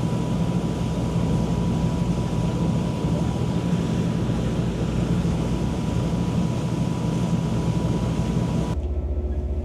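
Tour boat's engines droning steadily under a rush of wind and water. About nine seconds in, the sound cuts abruptly to a different, lower engine hum without the rushing noise.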